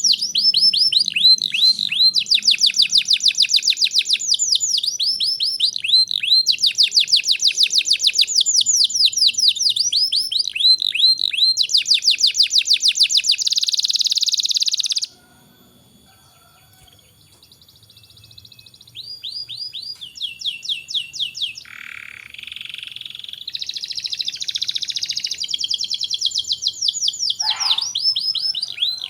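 Domestic canary singing long, fast trills and rolls of rapidly repeated notes. The song breaks off about halfway through and starts again a couple of seconds later.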